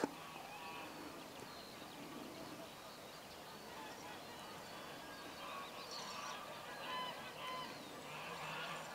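Faint outdoor ambience with scattered bird calls, short calls coming again and again.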